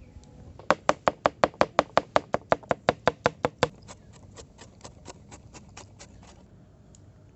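Knife chopping food on a cutting board in a fast, even rhythm of about six chops a second, loud for the first three seconds, then lighter until it stops about six seconds in.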